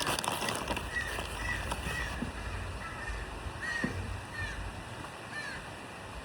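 A bird calling over and over in short, arched calls, one every half second to a second, with a few faint clicks.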